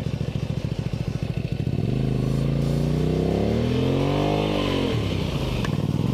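Honda Spada 250's V-twin engine idling with a lumpy pulse, then revved up and back down, and revved again near the end, with the bike stuck in soft sand.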